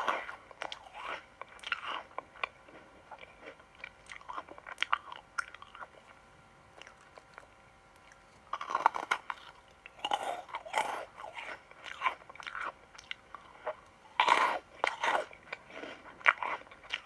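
Crunchy sweets being bitten and chewed, in bouts of sharp crackling crunches with a quieter stretch about six to eight seconds in.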